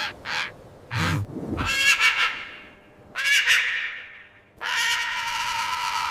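Seagulls crying: three calls, the last one the longest, after a couple of short knocks.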